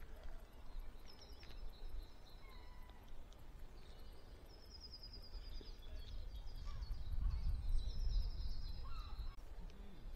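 Woodland birds singing: several short, high, rapid trills and a few lower whistled notes, over a low rumbling background that grows louder in the second half.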